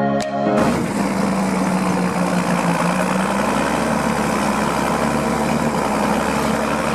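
Background music stops about half a second in and gives way to a John Deere 6910 tractor's six-cylinder diesel engine running steadily at an even speed.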